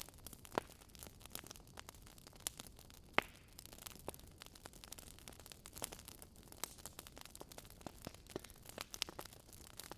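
Wood fire in a fireplace crackling: irregular snaps and pops of burning logs over a faint hiss, with the sharpest pops about half a second in and about three seconds in.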